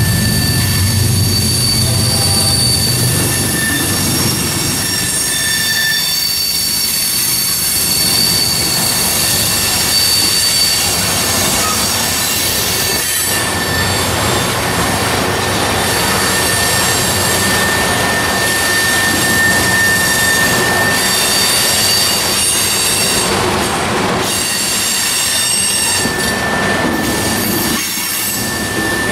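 Freight train rolling past, its steel wheels squealing on the rail: thin high-pitched squeal tones come and go over the steady noise of the passing cars.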